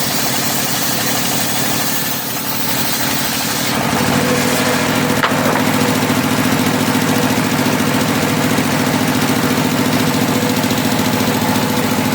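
Engine-driven circular sawmill (serkel) running steadily while sawing teak, its engine drone over a broad saw noise that grows a little louder about four seconds in.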